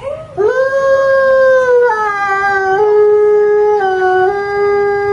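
A dog howling: one long, drawn-out howl that shifts pitch in small steps a few times.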